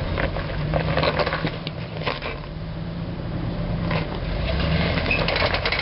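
Off-road 4x4 engine running slowly at low revs, with scattered clicks and crunches over it.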